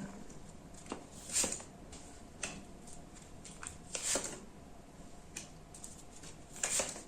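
Tarot cards being handled and laid out: a few soft swishes of cards sliding, the strongest about a second and a half in, around four seconds, and near the end, with light ticks between.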